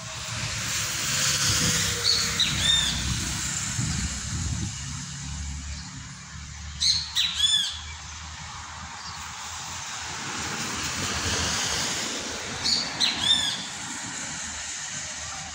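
A bird giving three short bouts of harsh squawking calls, about five seconds apart, over a steady background hiss and low rumble.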